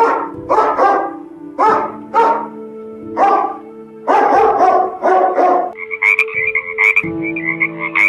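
A dog barking repeatedly, in short barks. About six seconds in, a frog starts croaking in a quick run of calls.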